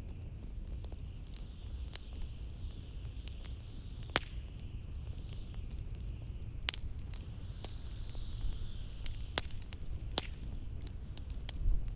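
Wood fire crackling, with irregular sharp pops, over a steady low rumble of blizzard wind and a thin whistle of wind that rises and falls, swelling most about two-thirds of the way through.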